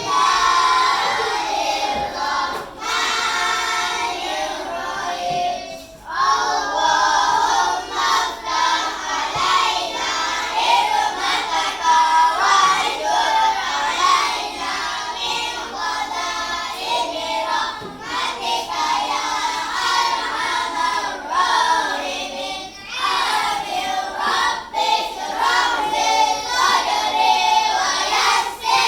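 A group of children singing together in unison, continuously and at full voice.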